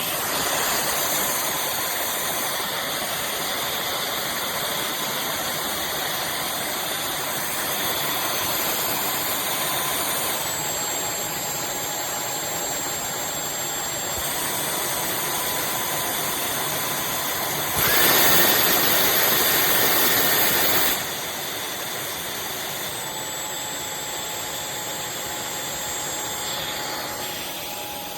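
Dyson V12 Detect Slim cordless stick vacuum running, a steady rushing motor sound with a thin whine that steps down and back up in pitch a few times. Around two-thirds of the way through it runs noticeably louder, with a higher whine, for about three seconds, then drops back.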